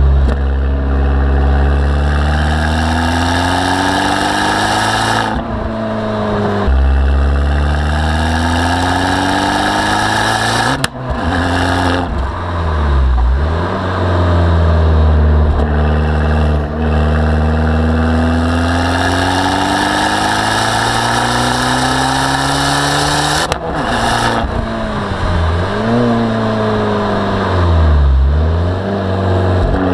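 Abarth 595 Turismo's turbocharged 1.4-litre four-cylinder under hard acceleration, revs climbing through the gears and dropping sharply at each of several gear changes, with brief dips and recoveries in between.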